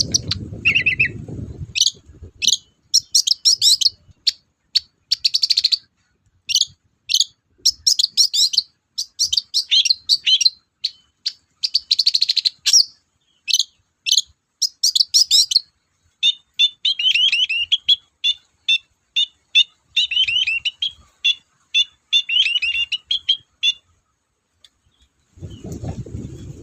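Long-tailed shrike (cendet) singing a fast, varied song of high chirps and trills in short bursts, with a run of quick repeated notes in the latter half.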